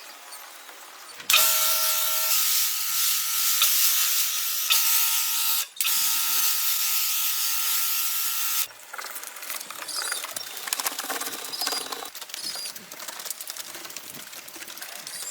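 A power tool running steadily with a whine for about seven seconds, starting a second in, with one short break in the middle. Quieter workshop handling sounds come before and after it.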